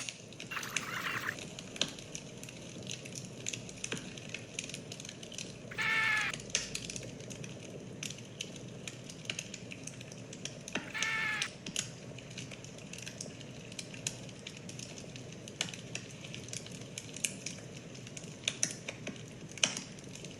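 Fire crackling steadily with scattered sharp pops, and two short pitched animal calls about five seconds apart.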